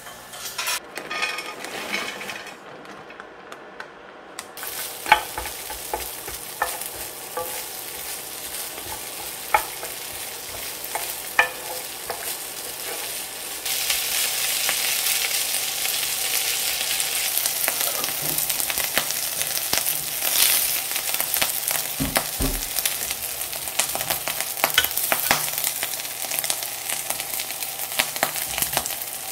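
Food sizzling on a ceramic-coated grill plate over an induction cooker, with a few sharp taps of utensils on the plate. From about halfway the sizzling grows louder as fried rice is stirred and scraped across the plate with a spatula.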